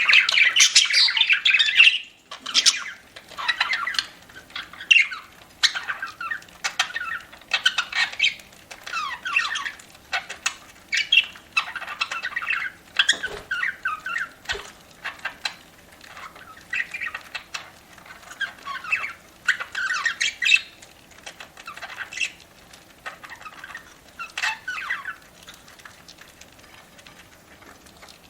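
Pet budgerigars chattering and squawking in quick, scratchy bursts with scattered sharp clicks. The calls are loudest and densest for the first two seconds, then come in separate bursts about every second, thinning to a quiet stretch near the end.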